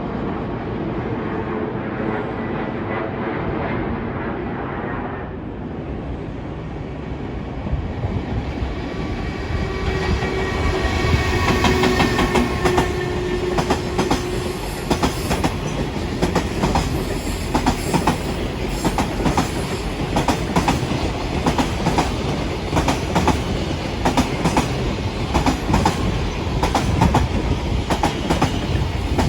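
An electric train whines for the first few seconds. From about eight seconds in, a long train passes close by with a rapid, continuous clickety-clack of wheels over the rail joints, a little louder after the first few seconds of it.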